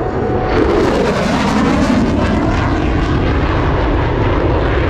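Loud jet noise of a single-engine F-16 Fighting Falcon making a fast entry pass, with a tone falling in pitch over the first couple of seconds, then a steady rumble.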